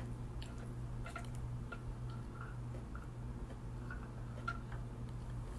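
Quiet chewing: faint, irregular small clicks and mouth sounds over a steady low hum.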